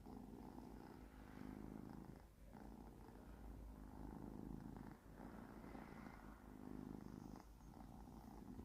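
Faint purring of a drowsy domestic cat, swelling and fading in slow cycles about every two and a half seconds with its breathing.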